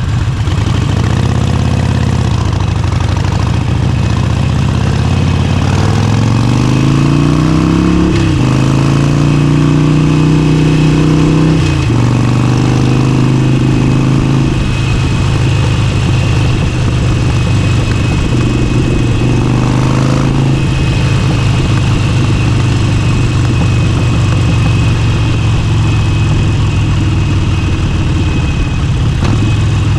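Motorcycle engine heard from the rider's seat, pulling up in pitch under acceleration, then dropping at a gear change about eight seconds in and at another about twelve seconds in, before running at a steady cruise.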